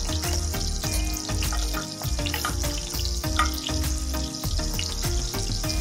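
Tomato paste frying in hot butter and oil in a stainless steel pot: a steady sizzle with small crackles, as it is stirred with a wooden spoon.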